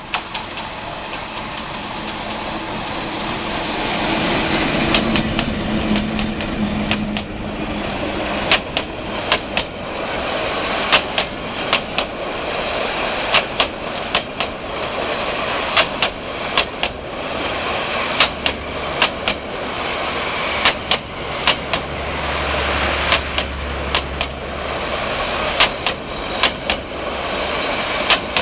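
Metre-gauge passenger train passing close by. Its diesel locomotive's engine hum builds and goes past in the first several seconds. Then the coaches' wheels run on steadily, clacking in pairs over the rail joints at a regular beat.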